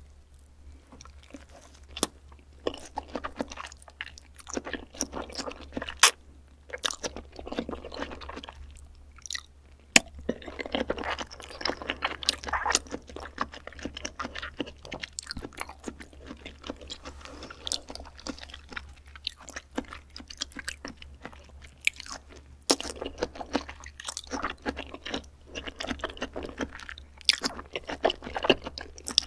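Close-up chewing of raw beef spinal cord: wet, squishy mouth noise broken by many sharp smacks and clicks.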